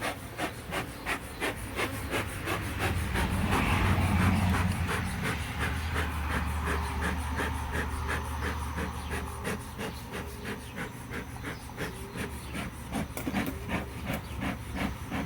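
Hive tool scraping and prying at wooden beehive frames glued in with propolis: a steady run of rasping strokes, a few a second. A low hum swells a few seconds in and fades again.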